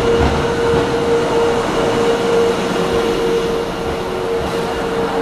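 JR 651 series electric limited-express train rolling slowly past along a station platform: a steady rumble with a constant mid-pitched whine running through it.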